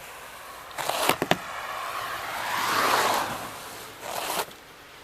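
Snow being cleared off a car: a few sharp knocks about a second in, then a long sweeping scrape that swells and fades, and a short brush stroke near the end.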